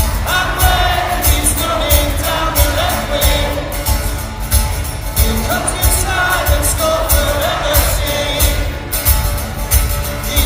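A singer performing an upbeat pop-style song over a backing track with a steady drum beat.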